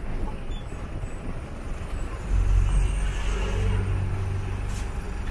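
Bus engine running, a deep low rumble that grows louder about two seconds in.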